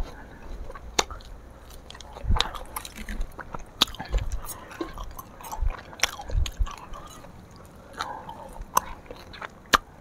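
Eating sounds heard up close: chewing with scattered sharp mouth clicks and smacks, and a few soft low thumps as food is handled with the hands on the plates.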